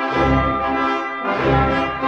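Instrumental intro music played by brass instruments: sustained chords over a low bass note that sounds roughly twice a second.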